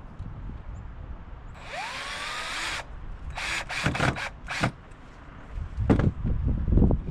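Power drill running on wood: one run of about a second that spins up with a rising whine, then about five short trigger bursts, followed by knocks and handling of the workpiece.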